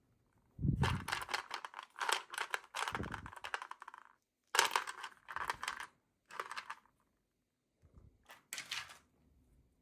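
Small plastic packaging or toy pieces being handled during an unboxing: four bouts of dense crinkling and clicking, the longest about a second in, with short pauses between them.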